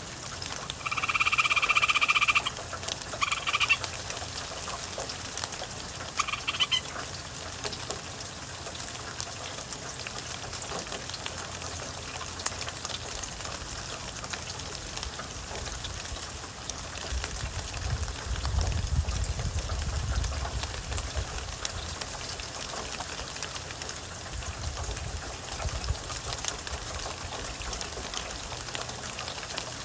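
Gray treefrog trilling over steady rain: one loud trill about a second in, then two shorter trills a few seconds apart. A low rumble of thunder comes through the rain about two-thirds of the way in.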